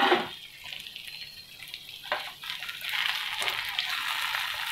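Masala okra (bhindi) sizzling in an open frying pan as a spatula stirs it. There is a knock about two seconds in, and the sizzle turns louder and steady from about three seconds in.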